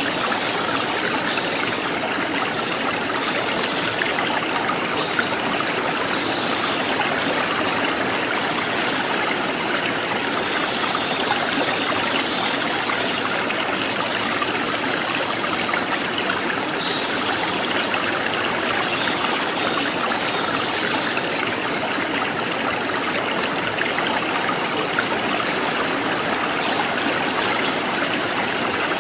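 Forest stream trickling and gurgling in a steady, even rush. A faint high-pitched trill comes in three times, for a couple of seconds each.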